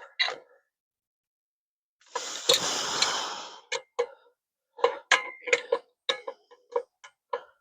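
Hand-tool work on a driveshaft U-joint cap. About two seconds in there is a harsh rush of noise for about a second and a half, then a run of short sharp clicks at about four a second.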